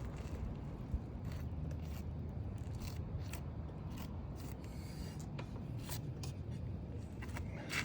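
Scraping and rubbing with scattered light clicks from hands working asphalt shingles and their fasteners on a roof, over a steady low rumble, with one small knock about a second in.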